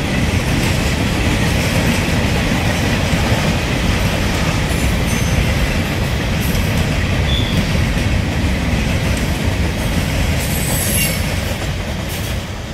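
Covered hopper cars of a Norfolk Southern freight train rolling past, with a steady wheel rumble and rail clatter. High wheel squeals come near the end, then the sound eases as the last car goes by.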